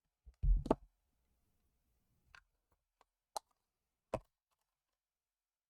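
Craft supplies handled on a tabletop: a dull thump about half a second in, then a few separate sharp clicks and taps.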